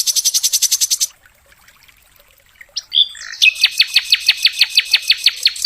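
Sikatan londo flycatcher song: a fast, high buzzing trill that stops about a second in, then after a pause a rapid series of sharp, high down-slurred notes at about six a second, the 'full tembakan' (shooting) style of song used as masteran for training songbirds.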